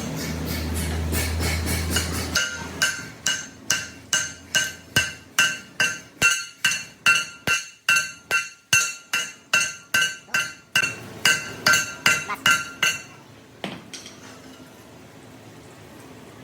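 Steady hammer blows on steel, about two or three a second for some ten seconds, each strike ringing with the same bright metallic note. A low machine hum cuts off about two seconds in, just before the hammering starts.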